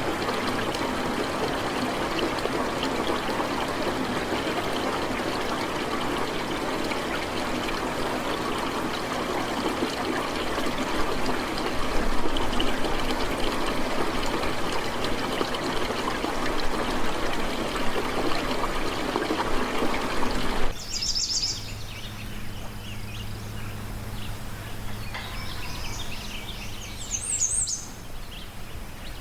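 A dense, steady hiss of falling water that cuts off abruptly about two-thirds of the way through. It gives way to a quieter background with a low steady hum and a few short, high bird chirps.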